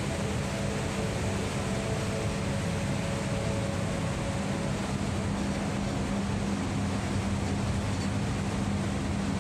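Steady drone of a ship's engine under way, mixed with wind and sea noise, even throughout.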